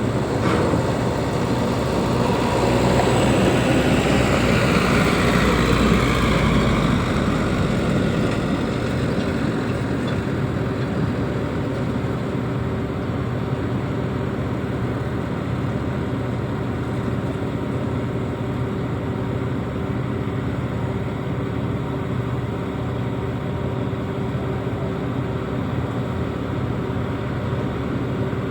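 Diesel engine of a reach stacker running. It swells for several seconds shortly after the start, with a high whine sliding down in pitch as it eases off, then settles to a steady run.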